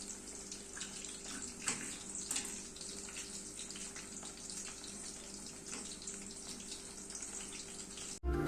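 Water running from a kitchen tap into a sink, with faint splashes and light knocks, over a steady low hum. It cuts off abruptly near the end.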